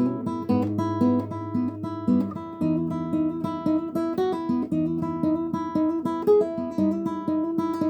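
Guitar played fingerstyle: picked single notes in a steady flowing pattern over ringing bass notes, a finger exercise.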